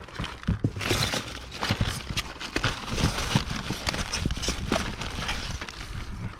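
Plastic DVD cases clacking and knocking against each other as they are handled and shuffled in a box, a quick irregular run of hard clicks.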